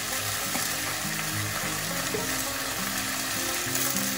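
Onions, capsicum and other vegetables sizzling steadily in hot oil in a wok.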